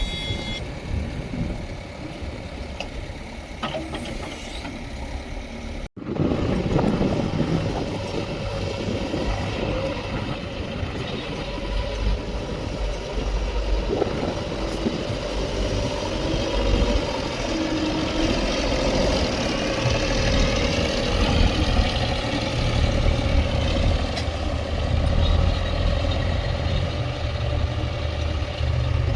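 Diesel engines of a JCB 3DX backhoe loader and farm tractors running while mud is loaded. The sound breaks off for an instant about six seconds in, then comes back louder, with a deep rumble growing heavier in the second half.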